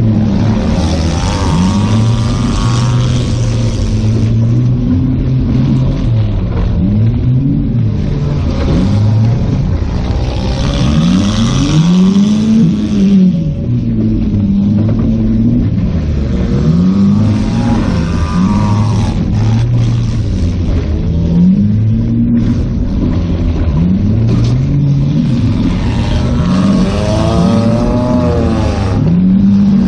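A car engine heard from inside the cabin, revving up and easing off again and again every few seconds as it drives, its pitch rising and falling, with a recurring hiss.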